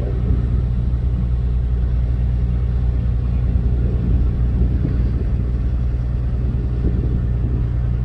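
Steady low drone of a ship's diesel machinery, an even hum with a rumble that does not change.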